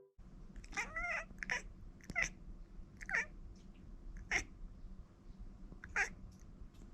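A cat meowing: about six short meows spread out, the first a longer one that wavers in pitch.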